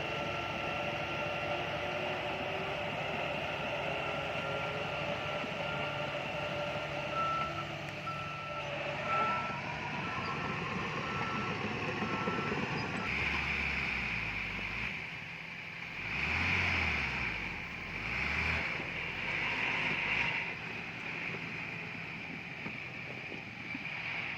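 A heavy construction machine's reversing alarm beeping in an even run over diesel engines running, stopping about halfway through. The engines then rise and fall in several louder swells.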